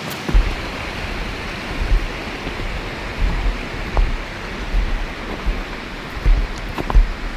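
Heavy rain falling in a steady hiss, with irregular low thumps starting about a third of a second in and a few sharp ticks.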